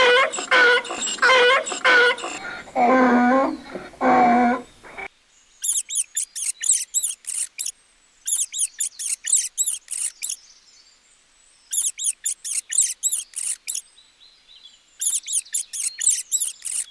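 A fox gives short, repeated, pitched yelping calls. About five seconds in the sound cuts to an animal making rapid, very high-pitched chirps in bouts of a second or two, with short pauses between.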